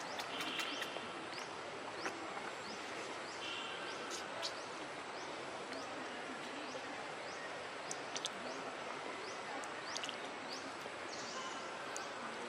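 Outdoor background noise: a steady hiss with a short, high rising chirp repeating about twice a second, a few brief high calls and scattered clicks.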